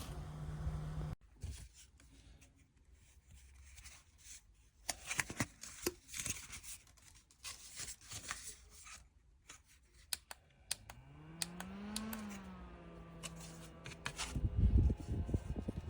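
Small rechargeable desk fan: its motor hum cuts off about a second in, then clicks and rustles of handling. About eleven seconds in the motor starts again, its hum rising in pitch, easing back slightly and settling to a steady tone, with a low rushing noise near the end.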